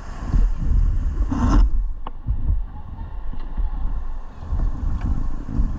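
Low rumbling buffeting of wind on the microphone over rushing noise, with a short hissing burst about a second and a half in and a sharp click just after.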